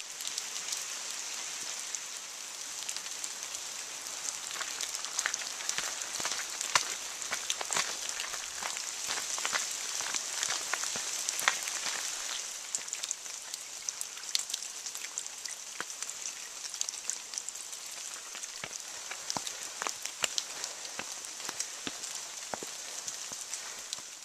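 Rain falling on foliage and the ground: a steady hiss with many irregular, sharp drop ticks.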